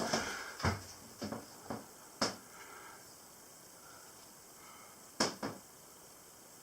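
A few sharp clicks and light knocks in the first two seconds or so, then a quiet stretch, then two more quick clicks about five seconds in, like small objects being handled.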